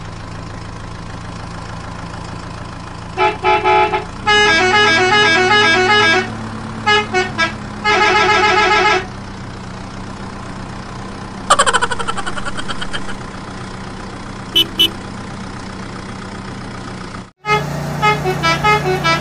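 Electronic toy-vehicle horn and jingle sound effects: several runs of short beeping horn tones in quick tune-like patterns, then a falling whistle-like glide, over a steady low hum. A brief gap near the end is followed by more beeping.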